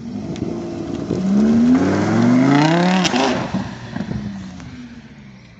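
Lamborghini Huracán's V10 engine accelerating hard away, its pitch climbing steeply. About three seconds in there is a gear change with a sharp crack, then the engine sound fades as the car pulls away.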